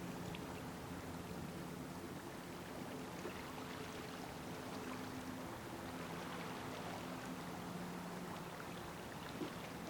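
Faint, steady outdoor background noise with a low hum that fades in and out several times.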